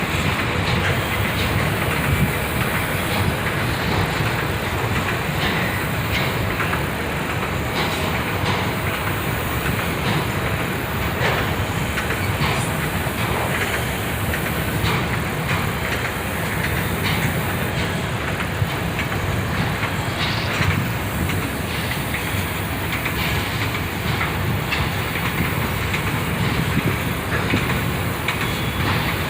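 Freight train of auto rack cars rolling steadily past, a continuous rumble of steel wheels on rail with scattered clicks as the wheels pass over rail joints.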